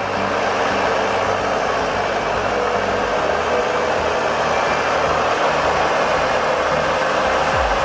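A heavy machine's engine running steadily with a dense mechanical noise.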